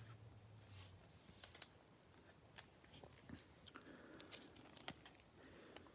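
Near silence with faint scattered clicks and soft rustling of trading cards and pack wrappers being handled.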